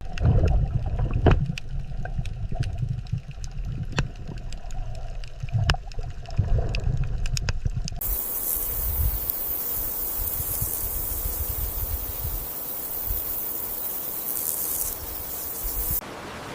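Water ambience: a low rumbling with scattered sharp clicks, changing abruptly about halfway through to a steady rushing hiss of water.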